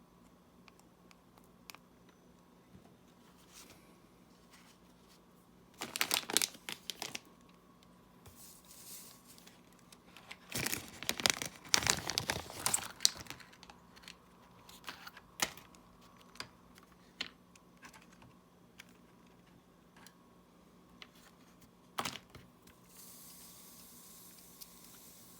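Small clicks and taps of hand tools on a smartwatch during repair, with two bursts of crinkly rustling, from plastic film or packaging being handled, about six and eleven seconds in. A steady hiss comes in near the end.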